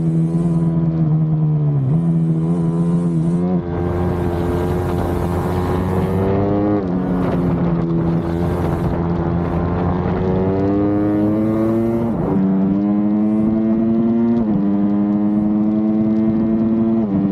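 Small motorcycle engine running hard as the bike is ridden around a track. Its pitch climbs steadily and then drops sharply several times as the rider shifts and lifts off the throttle.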